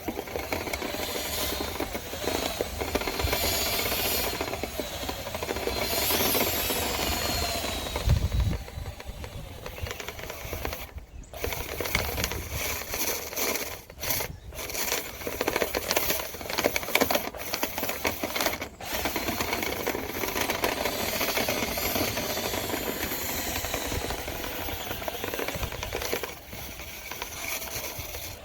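Power drill spinning a dryer-vent cleaning brush on extension rods inside a lint-clogged vent duct, the brush rattling and scraping against the duct walls. The motor's pitch rises and falls, and it stops for a moment three or four times.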